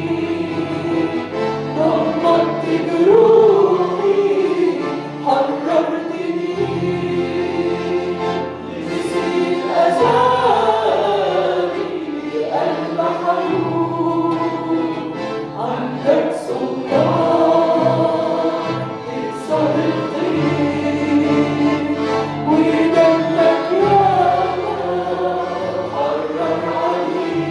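Arabic Christian worship song sung by a group of voices over instrumental accompaniment with held bass notes that change every second or two.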